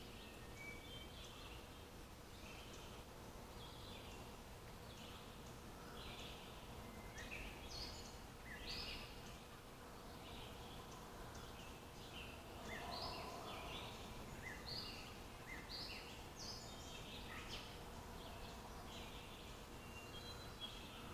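Songbirds chirping and calling faintly, many short high notes scattered throughout, over a steady low background hiss of outdoor ambience.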